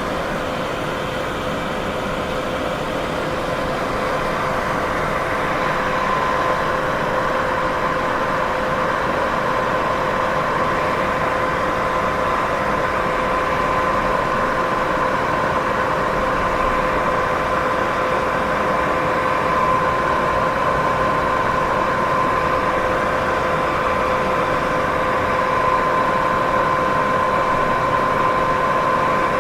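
Steady white-noise sleep sound: an even, unbroken rushing hiss with a faint steady hum at two pitches running through it.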